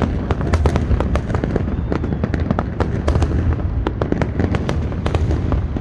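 Fireworks display: a rapid, continuous barrage of bangs and crackling over a constant low rumble.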